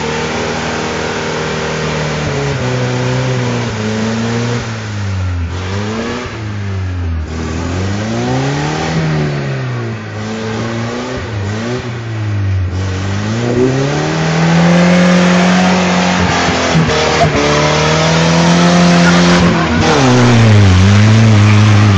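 Toyota four-wheel-drive's engine revved hard again and again, its pitch climbing and falling back several times and held high and loud through the second half, as the tires spin in deep mud: the truck is stuck in a mud hole and being gunned to push through.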